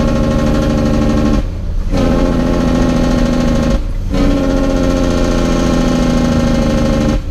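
Heavy truck's diesel engine pulling through the gears of an 18-speed transmission, its sound dropping away briefly three times as the driver lets off to shift, then coming back on.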